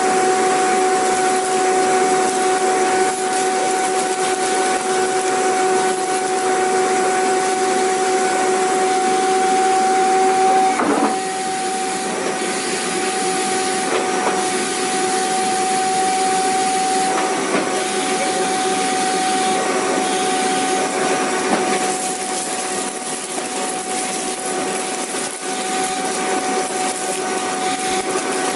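Vacuum cleaner running steadily: a constant rush of air with a steady motor whine. A few brief knocks come in the middle.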